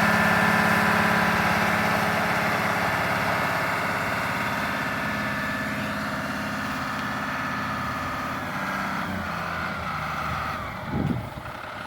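Diesel engine of an M35A3 2.5-ton 6x6 cargo truck running, its sound slowly fading over several seconds, with a brief low thump near the end.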